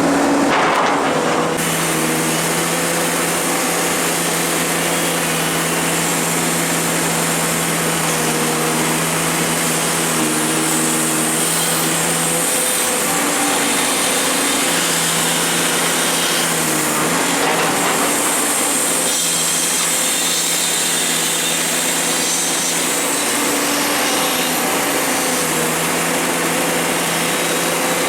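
Komatsu excavator's diesel engine running under work, a steady hum over a hiss, its pitch stepping up and down a few times.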